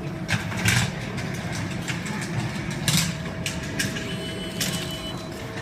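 Ticket vending machine working through a transaction: a steady low mechanical hum with a series of sharp clicks, typical of the machine's printing and ticket-feed mechanism issuing a ticket.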